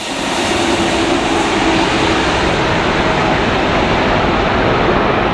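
Jet airliner's engines, a loud steady rush of noise with a faint steady hum running through it.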